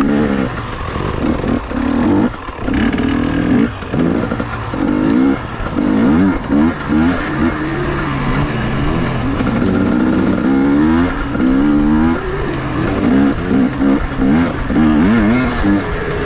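KTM two-stroke enduro motorcycle engine revving up and down off-road, pitch climbing and dropping over and over as the throttle opens and closes through the gears.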